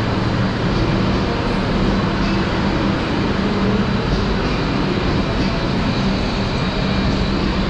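Steady rumble of a train standing in the station, its engine idling with a constant low hum.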